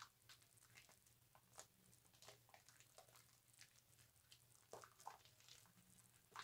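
Faint wet squishing and soft crackling of a bar of soap being lathered with a loofah, in small irregular clicks, over a steady low hum.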